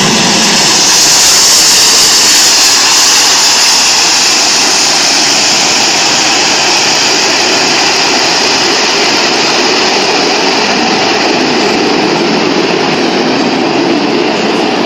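Loud, steady noise of big aircraft engines at high power: the Airbus A400M's four turboprops climbing away on a steep take-off, mixed with the Airbus A380 landing. The noise swells about a second in, then eases slowly.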